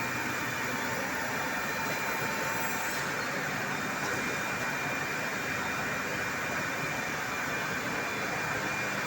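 4-axis CNC router at work on a wooden chair leg: a steady whine over an even machine noise.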